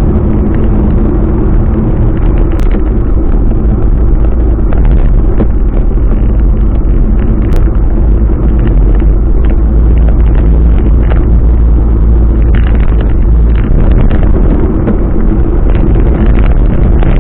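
Steady engine and road noise of a moving vehicle, heavy in the low end, with a few small clicks and rattles.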